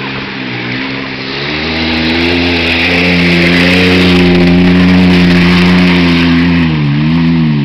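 Truck engine revving hard while driving in mud. It climbs to a high, held rev about two seconds in, with a steady hiss over it, dips briefly near the end, then drops away.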